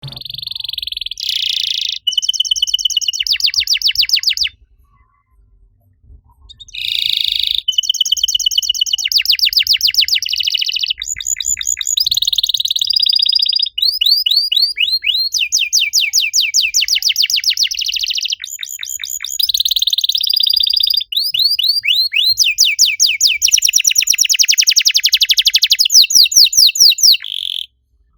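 Domestic canary singing long, fast trills of rapidly repeated high notes, with a break of about two seconds around five seconds in.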